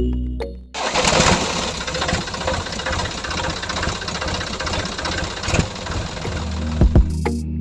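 Small engine running steadily with a fast, rough pulse, cutting in about a second in and stopping shortly before the end.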